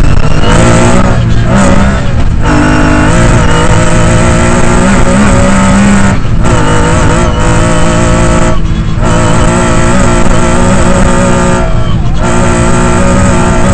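Lancia Stratos rally car engine heard from inside the cabin, revving hard at speed on a gravel stage. Its note drops out briefly about five times, as the throttle is lifted, then picks straight back up.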